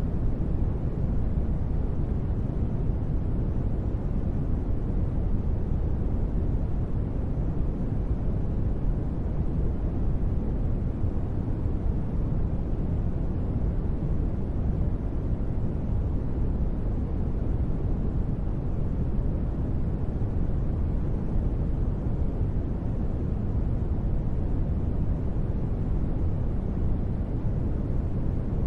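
Steady, unchanging noise for relaxation, deep and rumbly with little high hiss, and no events or tones in it.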